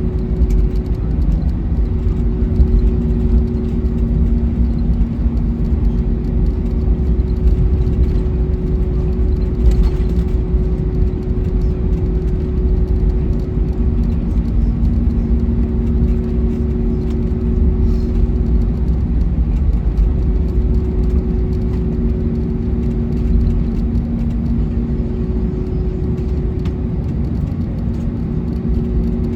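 Cabin noise in an Airbus A321neo taxiing after landing: a steady low rumble, with a two-note hum that drops out and returns every few seconds.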